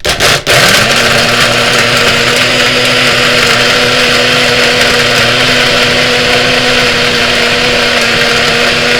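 Electric blender grinding a jam-packed jar of ice cream, mix-ins and milk: a couple of brief pulses, then the motor running steadily at one even pitch.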